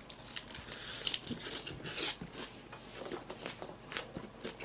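A person chewing a big mouthful of lettuce-wrapped bossam (boiled pork) close to the microphone: irregular crunching bites and chewing.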